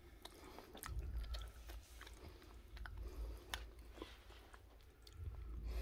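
Close-mic chewing of a mouthful of marinated pork, with scattered short clicks and wet mouth sounds. Low rumbling handling noise as the camera is turned, about a second in and again near the end.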